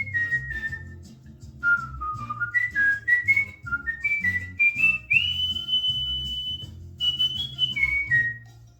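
A cockatiel whistling a tune in clear, pure notes. A run of short notes steps upward to one long held high note about halfway through, then a few falling notes end it just before the close. A low, beat-like music backing plays underneath.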